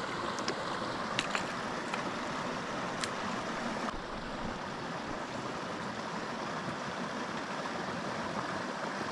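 Small mountain creek flowing and splashing over rocks, a steady rush of water, with a few faint clicks about a second in and near three seconds.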